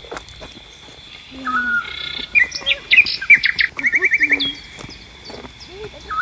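Birds chirping and calling, busiest and loudest in the middle, with a quick run of about eight repeated chirps a little after halfway.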